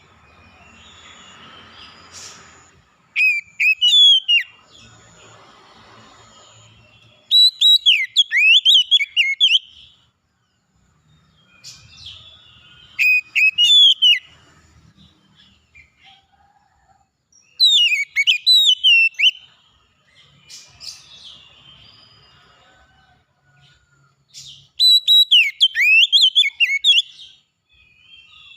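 A songbird singing loud phrases of fast, whistled notes that rise and fall. Each phrase lasts about two seconds, and five come in turn with pauses of a few seconds between them. A faint background hiss fills the gaps.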